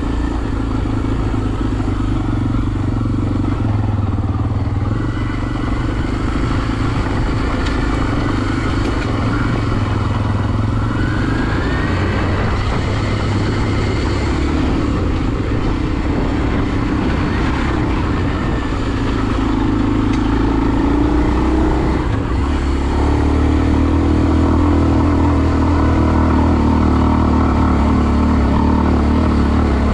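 2023 Kawasaki KLX230R's single-cylinder four-stroke engine running steadily, growing a little louder after about 20 seconds.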